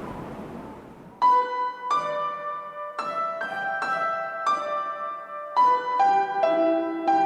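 Background piano music: single notes and chords struck at a slow, gentle pace, starting about a second in after a faint noisy hiss fades away.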